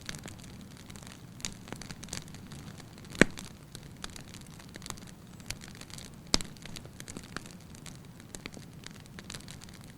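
Wood fire crackling in a fireplace: a steady low hiss with scattered pops and snaps, the sharpest about three seconds in and again a little after six seconds.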